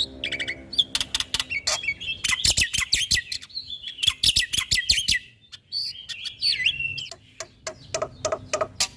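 Black-winged myna (jalak putih) singing a fast, varied song of chattering clicks and whistled notes, packed with mimicked phrases, with a short pause about halfway through.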